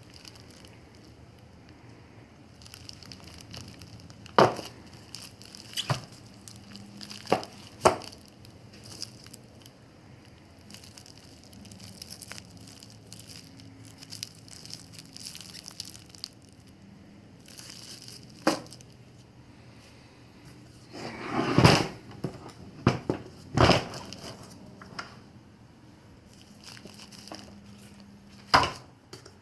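Hands working on a battery pack: scattered sharp clicks and knocks of hard parts being handled, with some crinkling, and a cluster of louder knocks a little past two-thirds of the way through.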